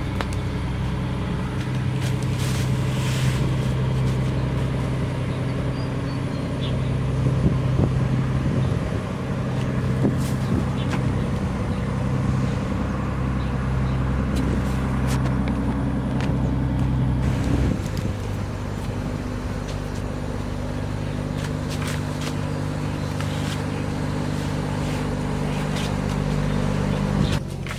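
An engine running steadily, its tone changing about eighteen seconds in, with a few light knocks over it.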